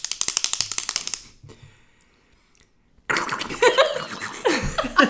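A rapid run of sharp clicks, about a dozen a second for roughly a second and a half, from a small handheld object being worked like a ratchet. After a short pause, a person imitates it with their mouth.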